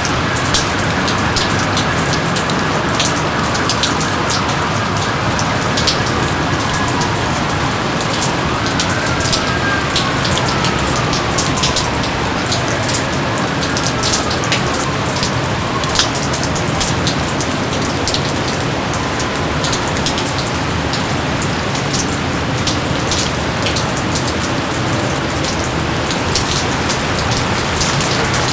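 Steady, heavy jungle rain: a dense even hiss with many close individual drops splashing. A few faint falling tones sound through it about ten seconds in.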